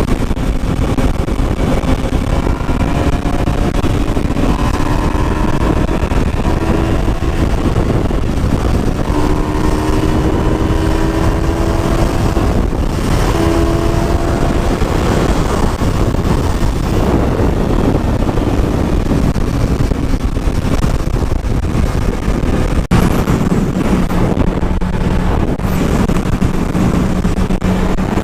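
Motorcycle engine running with heavy wind buffeting on the microphone, its pitch climbing slowly several times as it accelerates, then holding a steady low note near the end.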